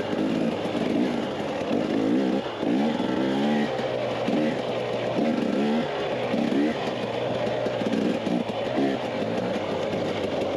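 Dirt bike engine revving up and easing off again and again as the throttle is worked on the trail, under constant wind and riding noise.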